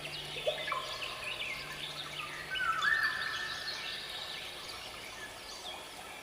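Birds chirping and singing, with many short calls and a few longer held whistles, over a soft background. A low steady hum runs underneath and fades out about two and a half seconds in.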